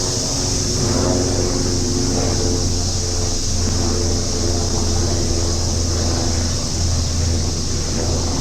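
A steady, high chorus of summer cicadas over a low, continuous hum of vehicle traffic.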